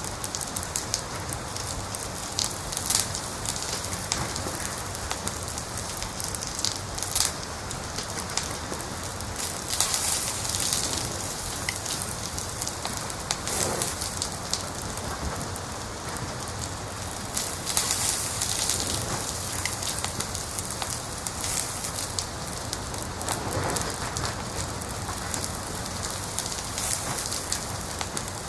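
Wood fire crackling steadily, with dense small pops and a few louder snaps.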